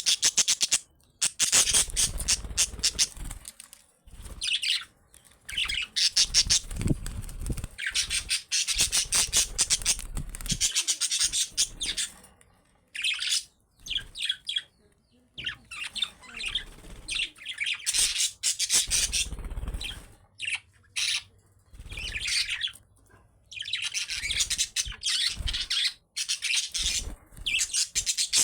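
Budgerigars chattering and warbling, with fast chirps and squawks in bouts that break off every few seconds.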